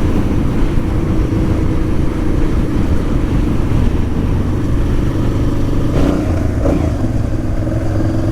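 Honda Transalp motorcycle engine running steadily while riding, with wind rush on the helmet-mounted camera.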